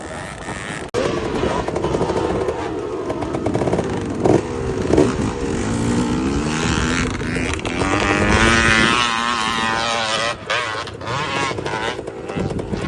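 Enduro dirt bike engine revving up and down, its pitch rising and falling as the rider works the throttle, with a sudden break about a second in.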